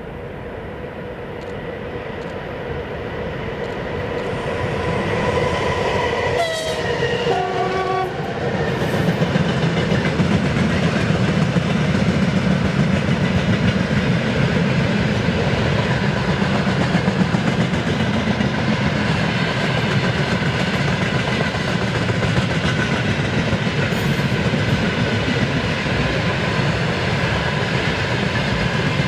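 A VL11.8 electric freight locomotive approaches and passes, its horn sounding briefly about six seconds in with the pitch dropping as it goes by. A long, steady rumble and clickety-clack of the train's wagons rolling past follows.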